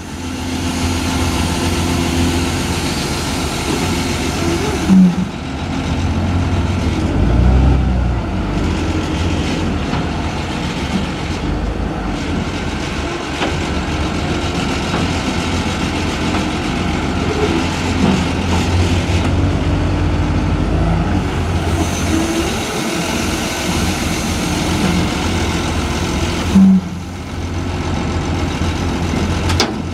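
Diesel engine of a heavy junkyard forklift running steadily under load while it carries a car high on its forks. Two short, loud tones sound about 5 seconds in and again near the end.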